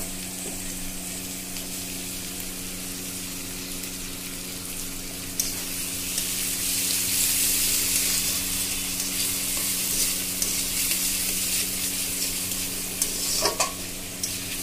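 Chopped tomatoes, onion, chilli, ginger and garlic sizzling in mustard oil in an aluminium kadai while a metal spatula stirs them. The sizzle grows louder about five seconds in, and the spatula clicks against the pan a few times near the end.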